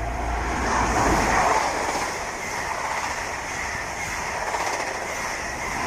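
High Speed Train with Class 43 diesel power cars passing through the station at speed. It is a loud, steady rush of wheel and rail noise that peaks about a second in.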